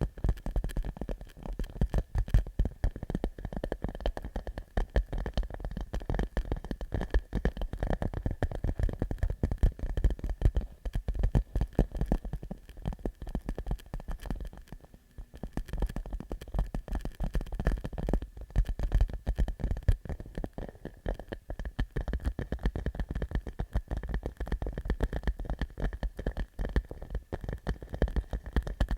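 Fingertips tapping rapidly on a clear plastic pouch, a dense run of quick clicks and pops, with a brief lull about halfway. The uploader likens the sound to popcorn popping.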